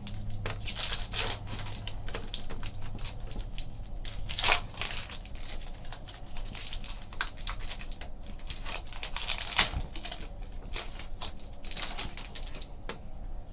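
Trading cards being handled as a pack is sorted through: a steady run of rustling, sliding and flicking of card stock, with a couple of louder knocks about four and a half and nine and a half seconds in.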